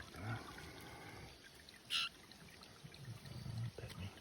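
Steady trickle of running water, with one short high-pitched chirp about two seconds in.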